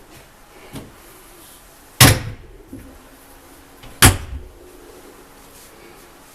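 Two sharp, loud knocks about two seconds apart, each with a short ring-out, with a lighter click shortly before them.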